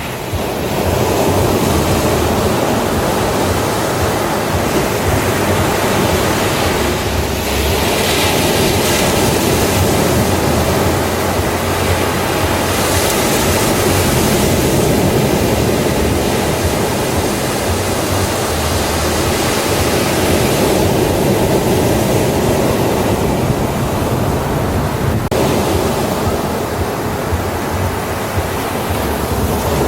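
Ocean surf on a beach: a steady wash of breaking waves, swelling louder and hissier as waves break about a third of the way in and again near the middle.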